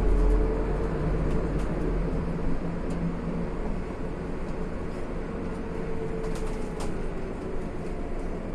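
Interior sound of a Scania CN280UB city bus under way: the low hum of its diesel engine and road noise, with a faint whine that swells and fades twice and occasional clicks. It gets a little quieter after about four seconds.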